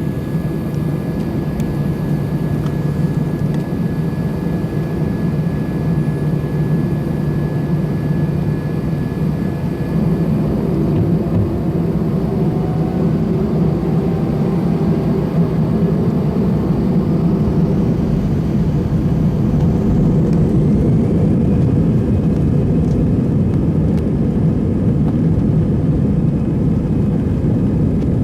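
Airbus A321-200 airliner's jet engines and airframe heard from inside the cabin during the takeoff run: a steady dense rumble that steps louder about ten seconds in and again near twenty seconds, with faint rising whines as the engines spool up to takeoff power.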